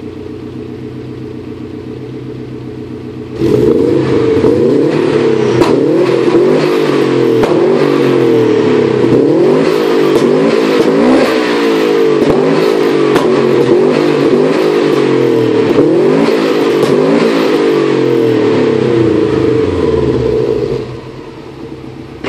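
Subaru flat-four boxer engine through a Group N exhaust, idling steadily, then revved hard in quick repeated blips, rising and falling over and over, from about three and a half seconds in. It drops back to idle near the end.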